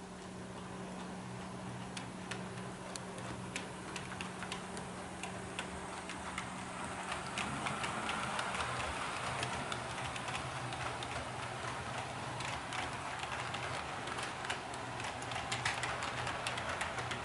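HO-scale model train running on the layout, its wheels clicking over the rail joints in an irregular, quickening patter. A steady hum fades about seven seconds in as a rushing noise builds.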